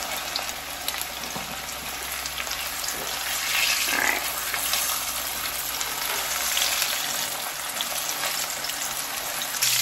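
Cornstarch-coated pork chop frying in hot oil in a wok: a steady crackling sizzle that swells a little about four seconds in.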